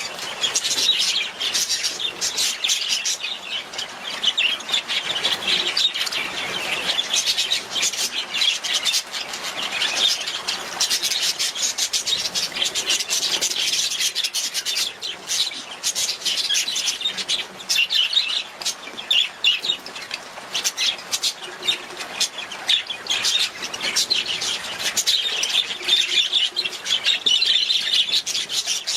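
Budgerigars chattering and warbling continuously: a dense, unbroken stream of short high chirps and twitters from several birds at once.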